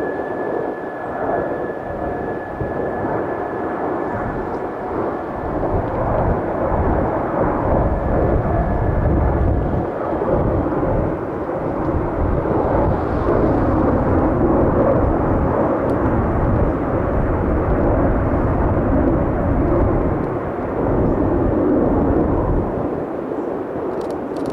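Jet engines of an Airbus A330-900 (Rolls-Royce Trent 7000s) running as the airliner arrives: a continuous rumble that grows louder and deeper over the first several seconds and stays strong, with a thin high whine that fades out about ten seconds in.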